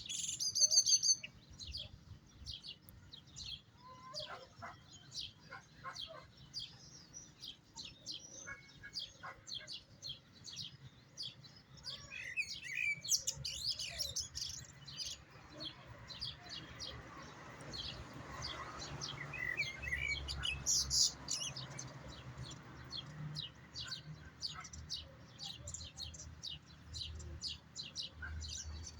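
European goldfinch singing: a long run of quick twittering chirps and trills, with a louder ringing note about a second in.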